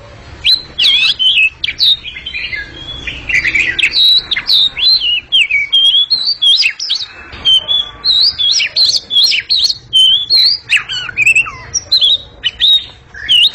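Captive oriental magpie-robin (kacer) singing loudly: a continuous, varied song of clear whistles, quick up-and-down sweeps and a few harsh rasping notes.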